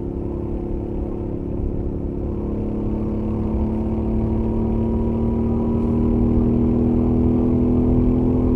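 Royal Enfield Interceptor 650's 648 cc parallel-twin engine on its stock exhaust, under throttle at highway speed, slowly climbing in pitch and getting a little louder as the bike accelerates. A low rush of wind runs beneath it.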